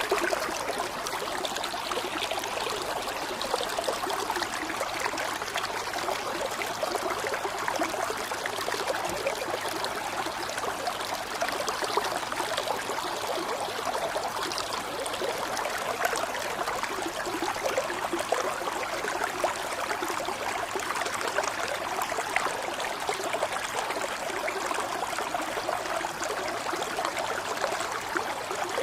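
Running water flowing steadily, an even, unbroken rush that holds the same level throughout.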